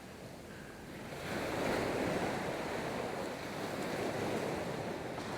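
Surf washing on the beach, swelling about a second in and then running steadily, with some wind on the microphone.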